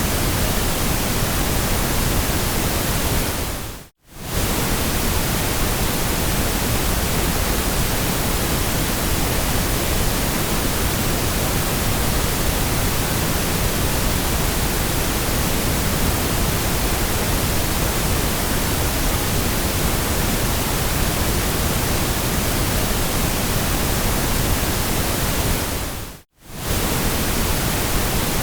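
Steady synthetic white noise, an even hiss. It fades out to near silence and straight back in twice, about 4 seconds in and again near the end.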